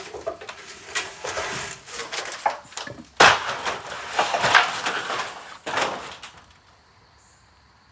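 Heavy wooden boards knocking and scraping against each other and the truck bed as they are moved, a rough clatter of irregular knocks and scrapes lasting about six seconds.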